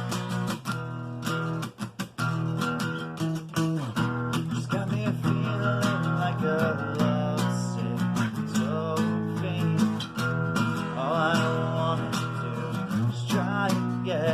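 Acoustic guitar strummed in a steady rhythm, playing the instrumental introduction of a song.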